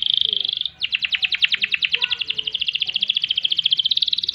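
Domestic canary singing: a fast high trill ends about three-quarters of a second in, then after a brief gap a long rolling trill of rapidly repeated notes starts slower and speeds up, running on without a break.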